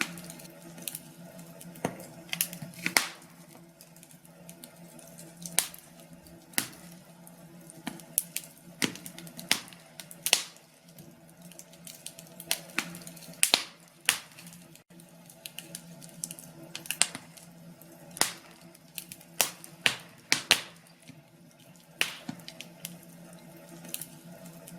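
Wood fire crackling in a fireplace: irregular sharp pops and snaps, a few every second or two, over a faint steady hum.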